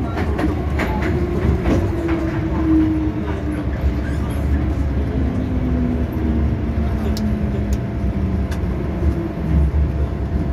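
MTR M-Train electric multiple unit heard from inside the car as it slows into a station. A steady rumble of wheels on rail is joined by a motor whine that falls slowly in pitch as the train brakes, with several wheel clicks over rail joints in the first two seconds.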